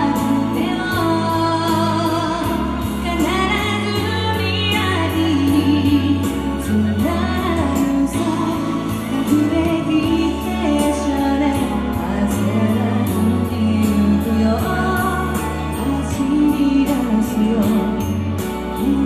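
A woman singing a pop song live over backing music, with a steady beat and held bass notes that change every couple of seconds.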